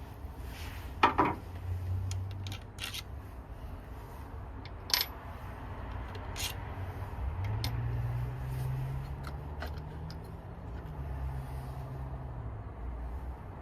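A few sharp metallic clicks and clinks, like tools or small parts being handled, over a steady low hum. A louder low drone swells about halfway through and fades near the end.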